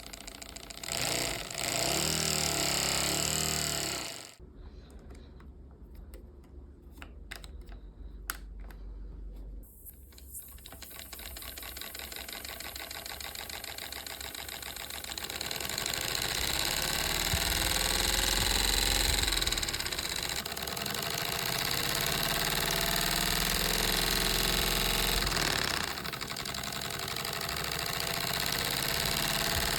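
LEGO Technic pneumatic engine running on compressed air, with a fast, even clatter of plastic pistons and valves and hissing air. A loud hiss of air opens it, then a quieter stretch with a few clicks; from about ten seconds in the engine picks up speed and runs fast and steadily to the end.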